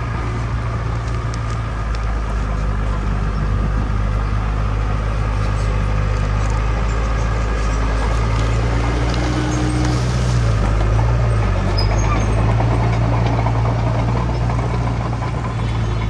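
Heavy diesel engine of earthmoving machinery running steadily under load. Its pitch dips briefly and recovers about ten seconds in.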